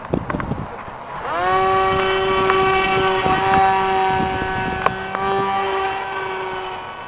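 Electric motor and propeller of an RC airplane spinning up about a second in, then running at a steady high pitch, with a couple of sharp clicks.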